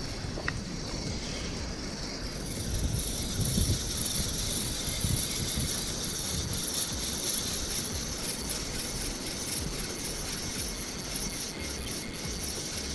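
Strong wind buffeting the microphone: a low rumble that swells and eases in gusts.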